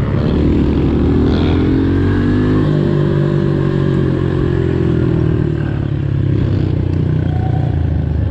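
Pit bike engines running under way. The pitch climbs for about two and a half seconds, drops at a gear change, then holds fairly steady.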